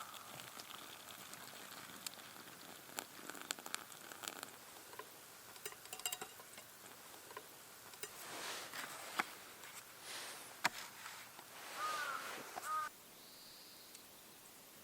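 Scattered sharp clicks and soft rustling, then a crow cawing twice near the end.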